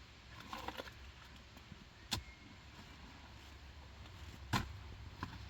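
A few short, sharp knocks, the loudest about four and a half seconds in, over a low steady rumble.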